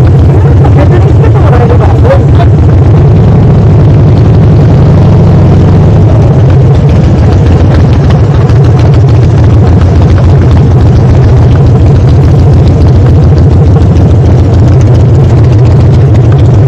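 Harley-Davidson motorcycle engine running close to the microphone as the bike rolls in slowly at low revs: a loud, steady, low pulsing exhaust note.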